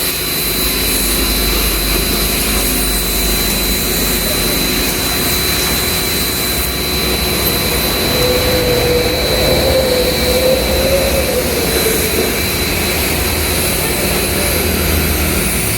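Ava P25 high-pressure washer running and spraying rinse water onto a car: a loud steady hiss with a thin, steady high whine.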